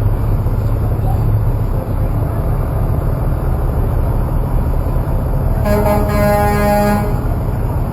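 Steady low rumble of trucks going past, with one horn blast of a little over a second, steady in pitch, about three-quarters of the way through.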